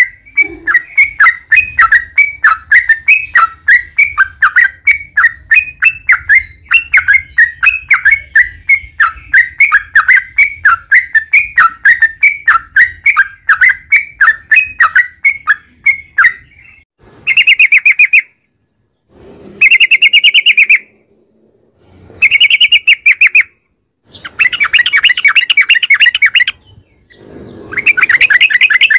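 Yellow-vented bulbul (trucukan) singing: a long run of quick repeated chirping notes, about three a second, that gives way about halfway through to separate bursts of very rapid rolling trills, each one to two seconds long.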